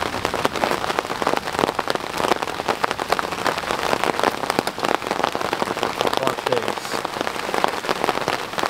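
Steady rain falling, a dense, even patter of individual drops.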